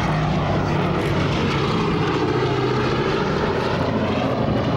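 Four Wright Cyclone radial engines of a Boeing B-17 Flying Fortress droning steadily as the bomber flies past.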